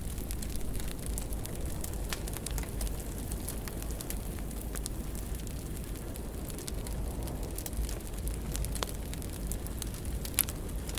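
Wood fire burning in a fireplace: a steady low rumble of flames with scattered crackles and one sharper pop near the end.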